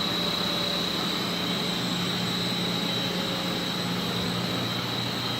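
Boiler-room machinery running steadily, with circulating pumps and boilers humming. A constant high-pitched whine sits above a low drone.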